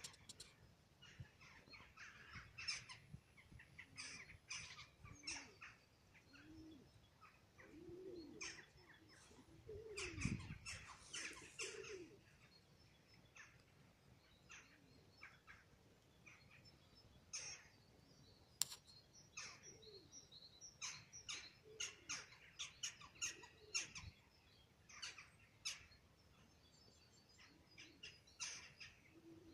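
Faint outdoor birdsong: many short chirps from small birds, scattered throughout. A brief low sound falls in pitch about a third of the way in.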